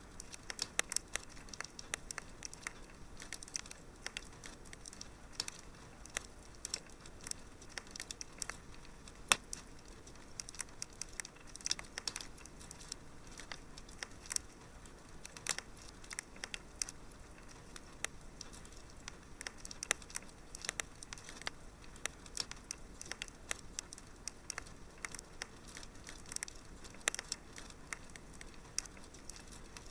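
Fire crackling in a fireplace: irregular sharp snaps and pops, several a second, over a faint steady hiss, with one louder pop about nine seconds in.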